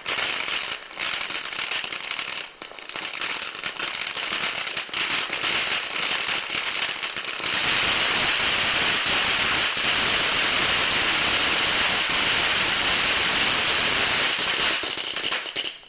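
Frog King firework fountain burning: a fast run of crackling pops, then about halfway through it turns to a dense, steady hissing crackle that dies away right at the end.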